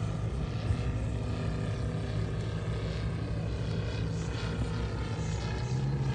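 Moki 300 five-cylinder radial engine of a large-scale RC TBF Avenger model running steadily in flight with a propeller drone, the pitch rising slightly near the end.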